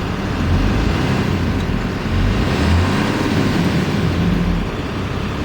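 Dodge Ram 5500 diesel engine being revved from idle, rising and falling three times in short bursts.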